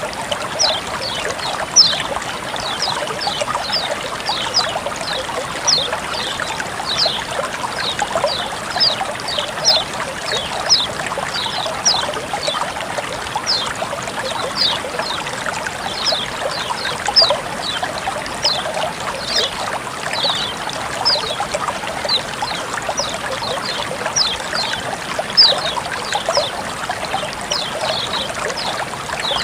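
Water flowing and trickling steadily, with a constant patter of short, bright droplet plinks several times a second over the rushing.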